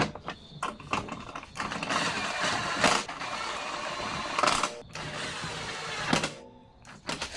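Briggs & Stratton 500E Series 140cc lawnmower engine starting after a few clicks and running steadily for several seconds, then cutting out abruptly.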